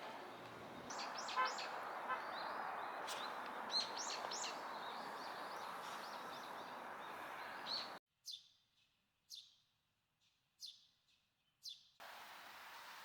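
Small birds chirping: short, high calls repeated over a steady background hiss. In a stretch near the end the hiss drops out and only about five sharp chirps remain, spaced about a second apart.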